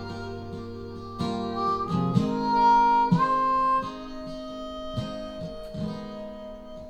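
Acoustic guitar strumming a country ballad with a harmonica fill between vocal lines. The harmonica is loudest about two to four seconds in, with a note bending upward.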